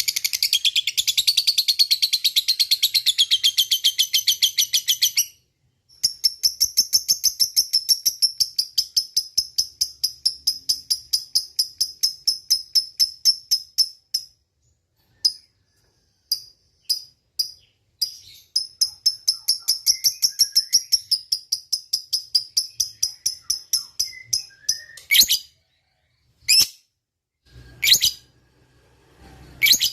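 A lovebird chattering its long 'ngekek' call: long runs of rapid, repeated shrill notes, broken by short pauses and a few single sharp calls near the end.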